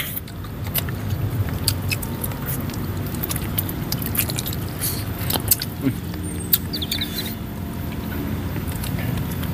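Close-up chewing and eating of chicken curry, with many short wet clicks and smacks, over a steady low hum.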